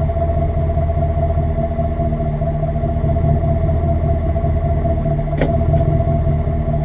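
Ram pickup truck's engine and exhaust droning steadily on the move, with one sharp click about five seconds in.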